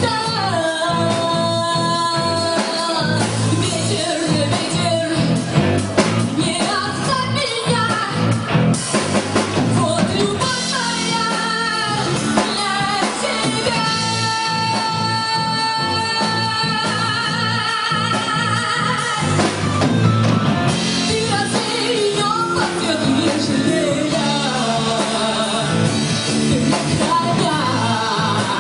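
A band playing a pop-rock song live, with a woman singing long held notes with vibrato over guitar and drums.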